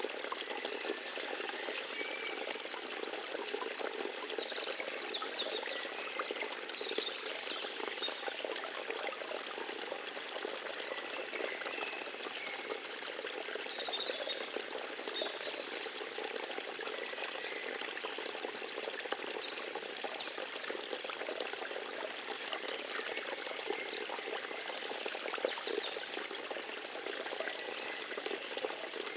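A small forest stream trickling and babbling steadily, with faint short high chirps scattered through.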